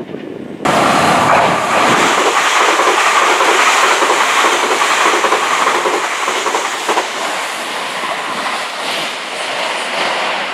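A train passing close by at speed: a loud rush of wheel and air noise that starts abruptly just under a second in, with wheels clacking over rail joints, easing a little toward the end.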